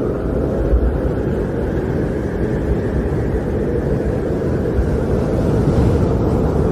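Snowstorm wind blowing steadily, a deep rushing noise with small gusty swells in the low end.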